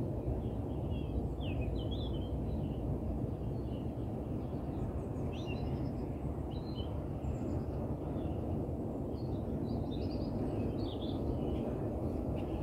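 Small birds chirping here and there over a steady low background rumble.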